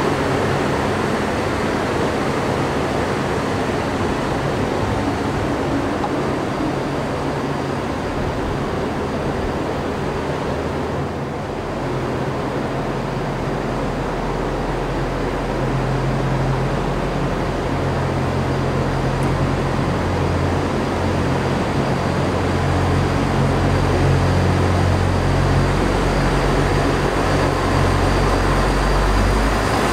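Euregiobahn diesel multiple units in a station: one train moves off on the near track, then a second runs in towards the platform, its low engine drone building up and growing louder through the second half as it comes close.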